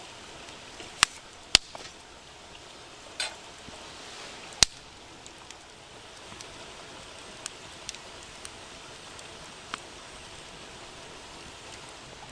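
Campfire burning with a steady hiss and a few sharp, irregular pops, the loudest three within the first five seconds, then smaller ticks.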